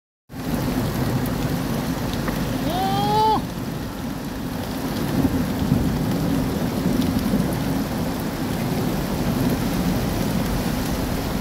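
Heavy rain falling, a steady hiss with a low rumble under it. About three seconds in, a short pitched sound rises over the rain.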